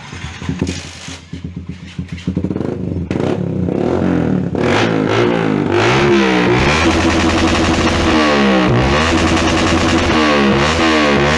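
Yamaha Jupiter MX King's single-cylinder four-stroke engine revving in quick throttle blips through an aftermarket Proliner TR-1 exhaust. About four seconds in, distorted electric-guitar music comes in and runs on loud over it.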